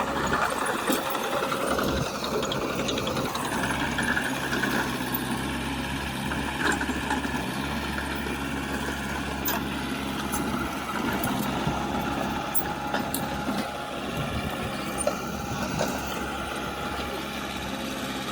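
Diesel engine of a piece of heavy earthmoving equipment running steadily, with light clicks here and there.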